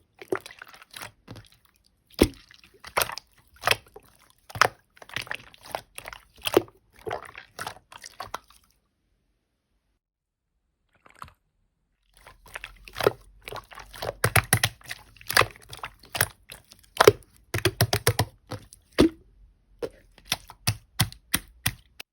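Clear slime being squished and pressed by hand, giving quick sticky clicks and wet pops. It stops for about three seconds partway through, then starts again.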